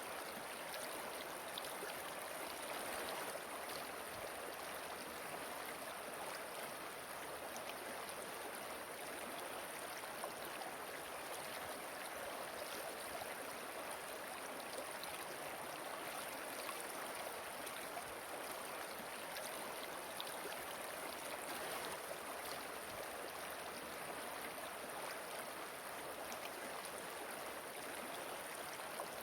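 Waterfall water rushing and splashing in an unbroken, even flow, with a thin steady high hiss above it.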